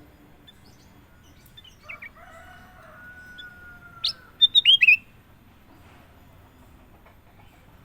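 Kutilang emas (a bulbul) singing: a long level whistle for about two seconds, then a loud run of about five quick, sharply falling notes.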